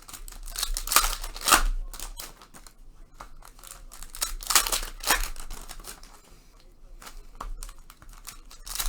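Foil trading-card pack wrappers crinkling and tearing open, in several sharp bursts with rustling between them.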